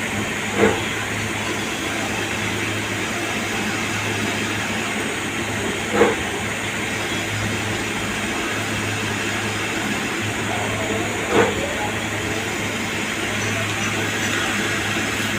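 CNC lathe running through its turning and threading cycle: a steady hiss of machining and coolant over a low machine hum, with a short louder burst about every five and a half seconds, three times.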